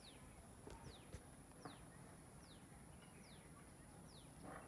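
Near silence with a bird's faint, short, high call that falls in pitch, repeated about once a second.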